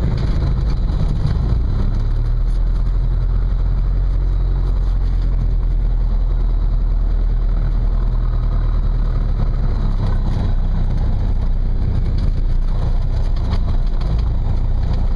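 Cessna 172's piston engine running steadily, a low, even drone.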